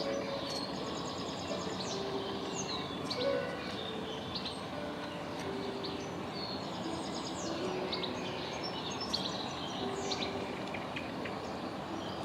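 Garden birds chirping and calling, with many short quick notes and sweeping chirps throughout, over a steady background noise.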